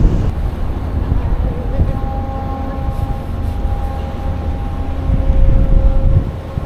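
Strong wind buffeting the microphone with a low rumble, and a steady mechanical hum with a few stacked tones coming in about two seconds in and fading out near the end.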